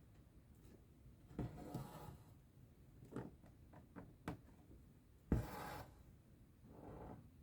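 Embroidery thread being drawn through cross-stitch fabric: a few soft rasping pulls, the sharpest about five seconds in, with small clicks of the needle between them.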